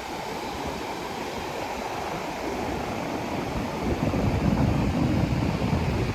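Waves washing onto a beach, a steady surf hiss that swells louder about four seconds in as a wave breaks.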